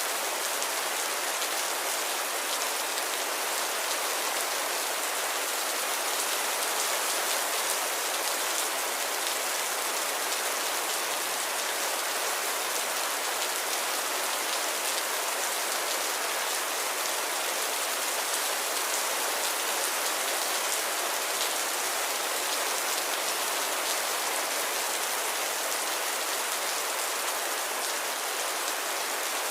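Steady light rain falling, an even hiss of drops with fine patter and no thunder.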